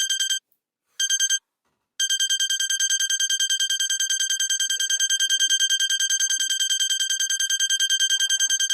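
Electronic alarm beeping, a high-pitched rapid beep-beep-beep: two short bursts, then continuous beeping from about two seconds in.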